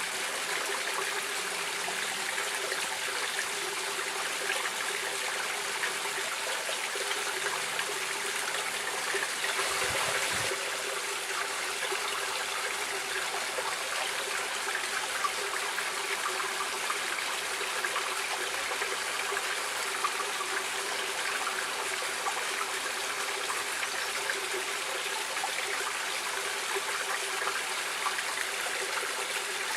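Stream water running and trickling steadily, with fine splashing and gurgling.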